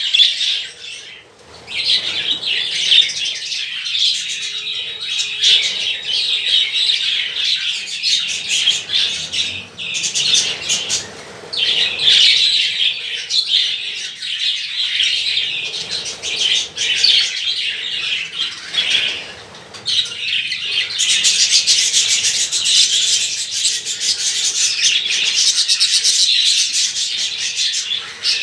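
A colony of budgerigars chattering and chirping, many birds warbling at once in a dense, continuous stream with a few brief lulls.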